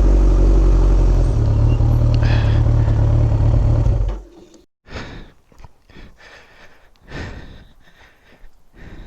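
Kawasaki ZX14R motorcycle running with heavy wind rumble on the microphone while riding, the engine note stepping up a little about a second in, then cutting off abruptly about four seconds in. After that, only faint scattered knocks and rustles.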